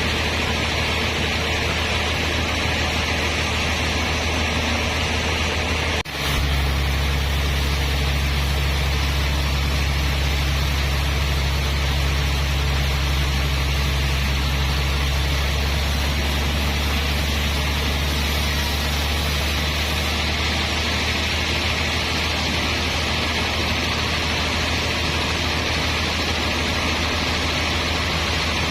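Sawmill machinery running steadily: a low engine hum under a broad hiss. There is a brief break about six seconds in, after which the low hum is louder.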